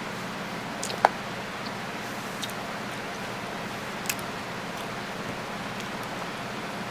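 A person eating cherries: a few short, sharp wet mouth clicks, the loudest about a second in, over a steady hiss and a low hum.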